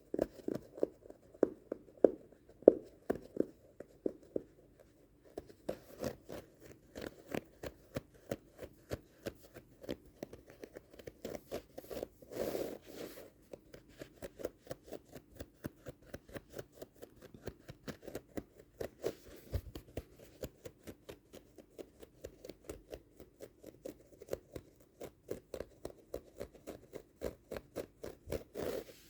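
A rug's carpet pile being scratched in quick, repeated strokes, several a second, with one longer rub about twelve seconds in.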